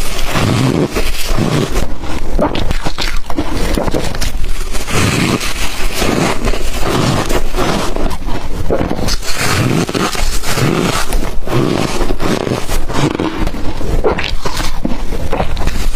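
Close-miked bites of ice coated in matcha and milk powder, crunching and crackling, with soft low gulps of swallowing recurring about once a second.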